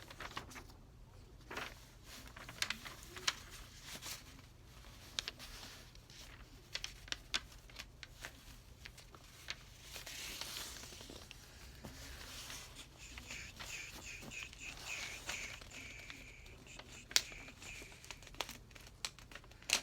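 A sheet of paper being folded in half lengthwise by hand: rustling and crinkling with scattered sharp crackles as the paper is handled and the crease pressed down, and a longer rustle about ten seconds in.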